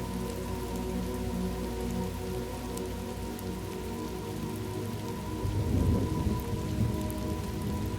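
Steady rain falling, with a low rumble of thunder rolling in about five and a half seconds in.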